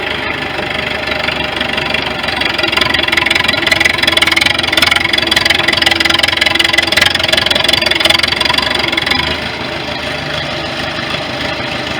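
Engine of a 1973 International 3444 loader tractor running as the tractor drives; it grows louder about two seconds in and drops back about nine seconds in.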